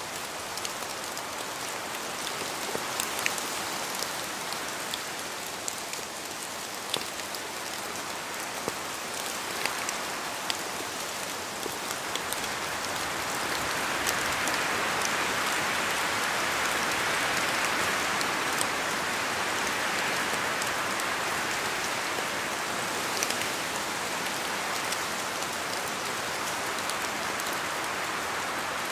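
Steady rain falling on a surface, an even hiss with scattered sharp drop ticks, swelling a little heavier about halfway through.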